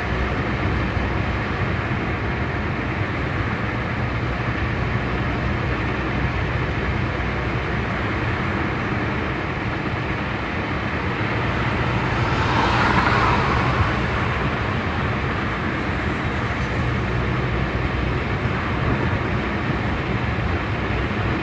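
Steady road and engine noise of a moving car, with a louder rushing swell about twelve to fourteen seconds in.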